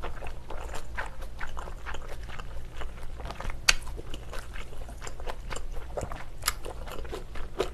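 Close-miked chewing and crunching of a mouthful of bean sprouts and glass noodles in spicy pork rib stew: irregular wet crackles, with a couple of sharper clicks.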